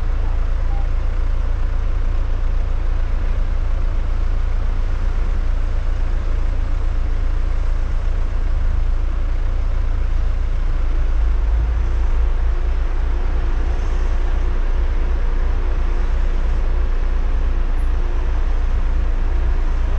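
Jeep 4x4 engines running with a steady low rumble. The rumble grows heavier about eleven seconds in, as a Jeep pulls up close.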